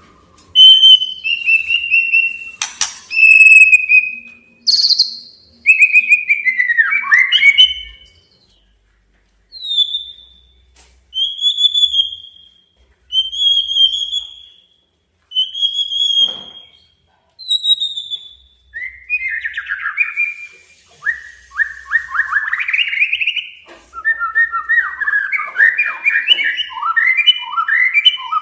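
Male white-rumped shama singing a challenge song: varied whistled phrases, then clear whistles repeated about every second and a half, then a rapid run of rasping, down-slurred notes near the end.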